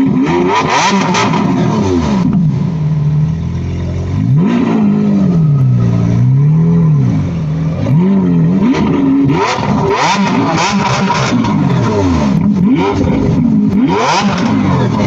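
Car engine revved over and over, its pitch climbing and falling in quick sweeps, with harsher noisy bursts at the top of several revs.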